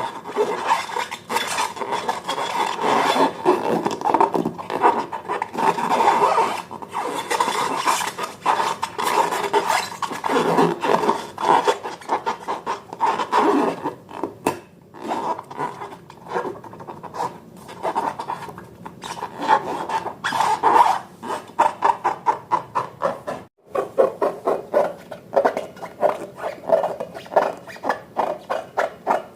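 Slime being worked by hand or stirred in a bowl, giving a dense run of rapid sticky clicks and crackles, with a brief break about 23 seconds in.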